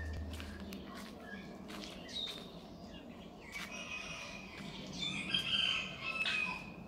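Birds chirping in short high calls, louder and more frequent toward the end, with a few sharp clicks.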